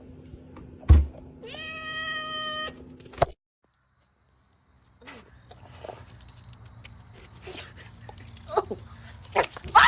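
A sharp thump, then a cat gives one long, steady meow. After a brief silence, scattered light knocks and clicks follow.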